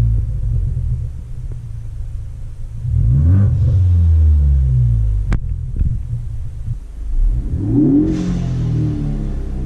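Ford Focus ST's turbocharged four-cylinder engine running through a muffler and resonator delete exhaust. Its note rises twice, about three seconds in and again near the end, and falls away in between, with one sharp click just past five seconds.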